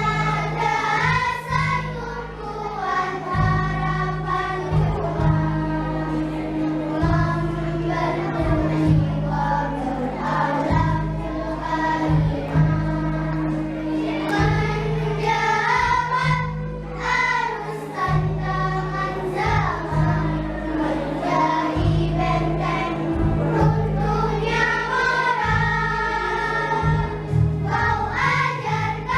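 Children's choir singing together over instrumental accompaniment.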